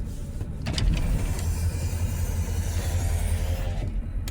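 Freight train rumbling past, a low steady rumble with a rushing noise that swells through the middle and fades near the end.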